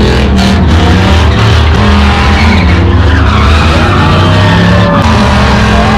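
A vehicle doing a burnout: engine running hard with tyres squealing, the squeal more pronounced from about halfway through, mixed with music.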